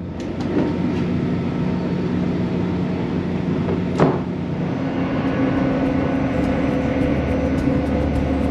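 Onboard running noise of a CrossCountry Voyager diesel train: a steady rumble with engine hum, with a single sharp knock about four seconds in. The hum's pitch shifts upward about five seconds in.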